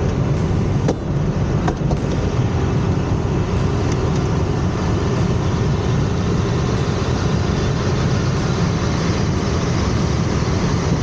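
Steady rush of airflow around the cockpit of a KR-03 Puchatek glider, an engineless glider, as it gathers speed for a loop and goes over, with a couple of faint clicks about a second in.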